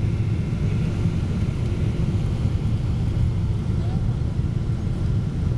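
Steady low rumble of a Boeing 777-200's engines and airflow, heard inside the passenger cabin.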